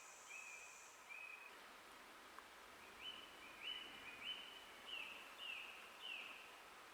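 Forest songbird singing a string of short, clear repeated whistled notes, growing louder in a run of about seven notes in the second half. A faint steady high insect buzz stops about a second in, over a quiet background hiss.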